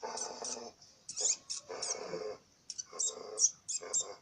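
A puppy whimpering: a dozen or so very short, high squeaks mixed with four longer, lower whines of about half a second each.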